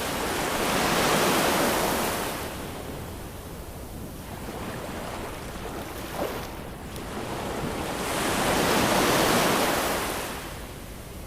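Ocean waves breaking and washing up a shore, two waves swelling and fading about eight seconds apart, the first cresting about a second in and the second near the end.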